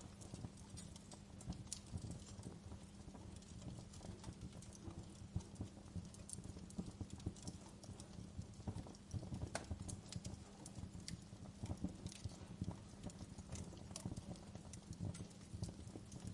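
Wood fire burning in a fireplace, with a steady low rumble and frequent irregular crackles and snaps.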